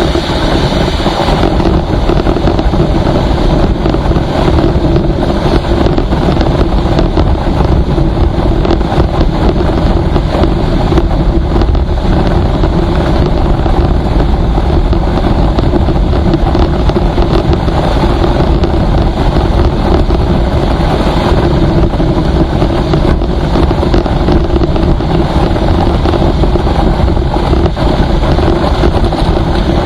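Vehicle travelling at a steady speed on a highway: a constant engine hum under loud road and wind noise buffeting the microphone.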